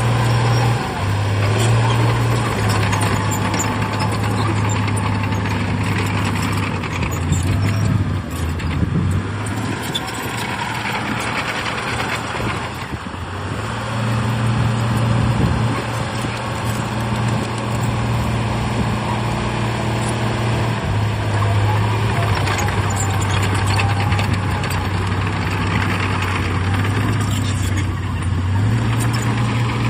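Heavy diesel engine of earthmoving machinery running hard, its pitch stepping up and down every few seconds as the load changes, with scattered clanks and knocks.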